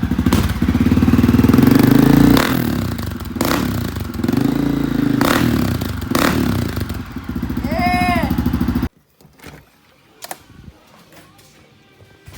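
Honda CRF250F single-cylinder four-stroke dirt bike running through a new Pro Circuit T-6 exhaust, loud, with the throttle blipped into several revs. It cuts off abruptly about nine seconds in.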